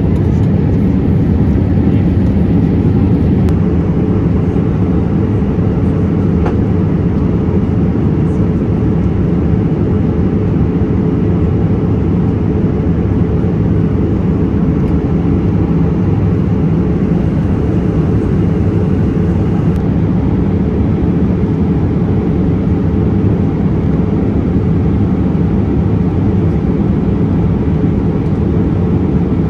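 Steady engine and airflow noise inside the cabin of a Boeing 787-8 airliner, loud, deep and unchanging.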